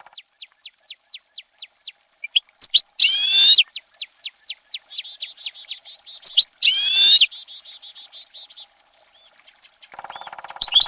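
Bird calls: a run of quick, high, falling chirps, a bit over two a second, broken twice by a loud harsh call, about three and seven seconds in. A buzzing sound joins near the end.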